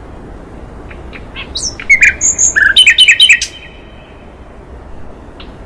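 Songbird song from a cage-bird training recording: after a near-quiet start, a fast run of short sharp chirps and high whistled notes about a second and a half in, lasting about two seconds, then a few scattered faint notes.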